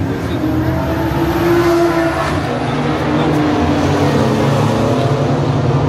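Modified Nissan R35 GT-R's twin-turbo 3.8-litre V6 idling, a loud steady rumble with a faintly wavering hum.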